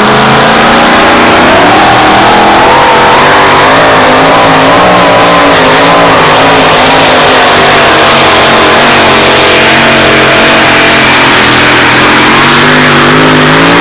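Dodge two-wheel-drive pulling truck's engine at full throttle under load, pulling a sled down the track. It is very loud, with revs climbing about a second and a half in, then holding high with a wavering pitch.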